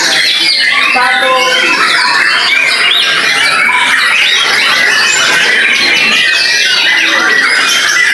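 Young white-rumped shama (murai batu) singing a continuous, dense stream of fast whistles, trills and chattering glides.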